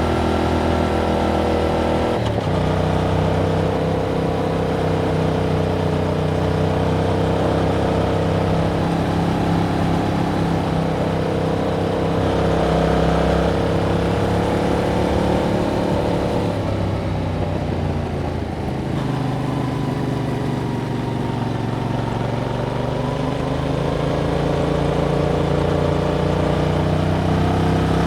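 Yamaha MT-07's parallel-twin engine through its stock exhaust, ridden at cruising revs. Its pitch steps down about two seconds in, as at a gear change, falls away around two-thirds of the way through, and climbs again near the end.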